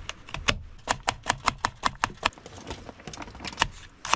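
Knife chopping on a cutting board: a quick run of sharp taps, about four or five a second, thinning out near the end.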